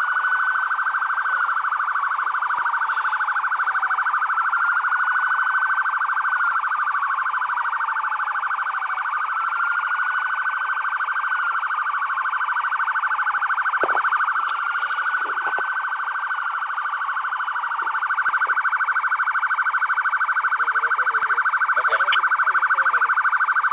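Police car sirens sounding together: a fast steady warble, with a slower wail rising and falling every few seconds over it.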